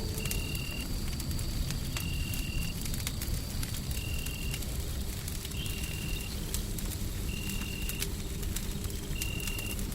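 Wood fire crackling with irregular pops over a steady low rumble of white noise. A short, steady high tone repeats about every one and a half seconds.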